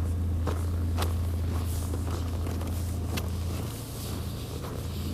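Steady low rumble of a nearby motor vehicle's engine, which drops away about three and a half seconds in, with scattered footsteps and taps.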